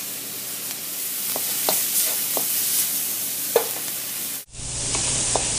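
Chopped onion and garlic sizzling in hot oil in a wok, with a wooden spatula clicking and scraping against the pan now and then. A little over four seconds in, the sound cuts out for an instant, then the sizzling picks up again.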